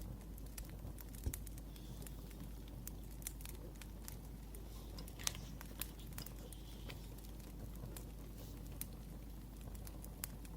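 Wood fire crackling with irregular small pops, two of them louder, over a steady low hum, with faint scratching of a pen writing on paper.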